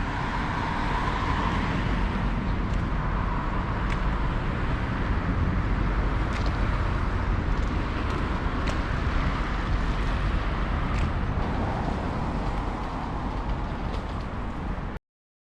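Steady low rumble of engine or vehicle noise with a few faint ticks; it cuts off suddenly near the end.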